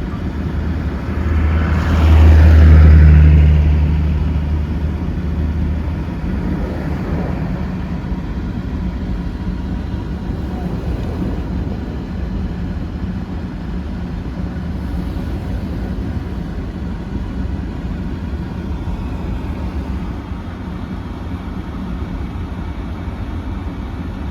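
A car running, with a steady low drone of engine and road noise. A louder vehicle sound swells about two seconds in and fades over the next few seconds.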